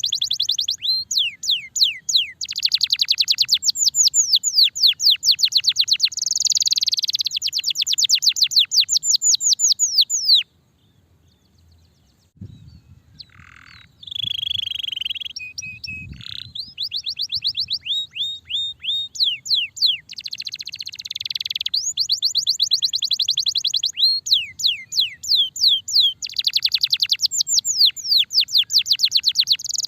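Domestic canary singing long, fast trills of rapidly repeated, falling whistled notes. There is a break of about two seconds near the middle, then a few softer notes before the full song resumes.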